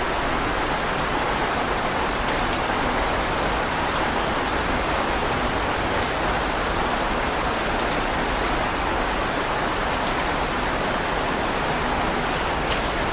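Heavy rain falling steadily: a dense, even hiss with a few sharp drop ticks, one near the end.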